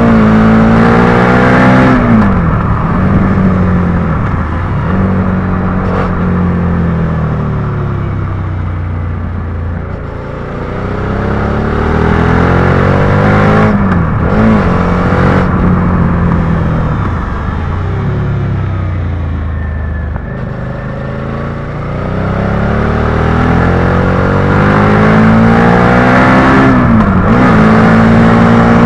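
Suzuki SV650's V-twin engine under way. Its pitch climbs as it accelerates and drops sharply at each gear change, several times over, with a slower fall and rise in the middle as the bike slows and pulls away again.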